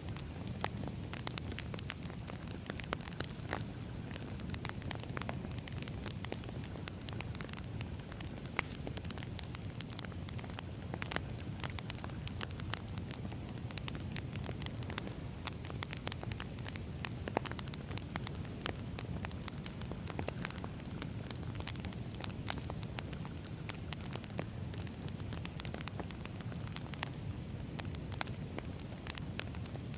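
Wood fire burning: a steady low rumble of flames with frequent sharp crackles and pops at irregular intervals.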